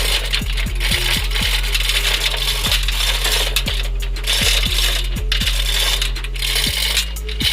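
Irregular metallic clicking, roughly two to three clicks a second, over a steady low hum, as from a ratcheting hoist taking up the weight of an engine.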